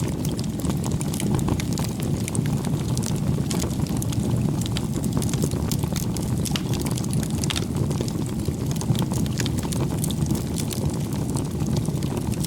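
Wood bonfire burning: a steady low rush with frequent sharp crackles and pops scattered throughout.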